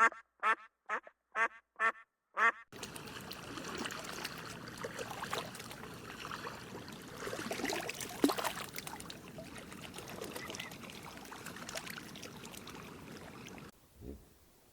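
An animal giving a run of short, quacking calls about twice a second, which stops after nearly three seconds. Then comes a long stretch of dense, crackling noise full of small scratches and knocks, which cuts off near the end.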